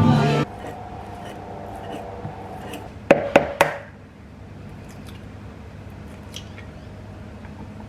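Music cuts off suddenly about half a second in, leaving quiet room tone; a little after three seconds come three sharp clicks or knocks in quick succession, about a quarter second apart.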